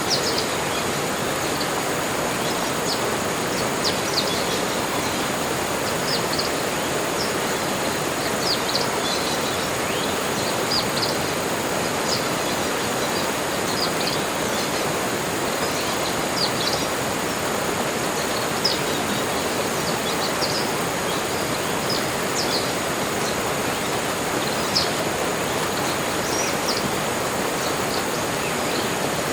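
Tropical forest ambience: a steady rushing hiss under many short, high bird chirps scattered throughout, with a thin steady high whine above them.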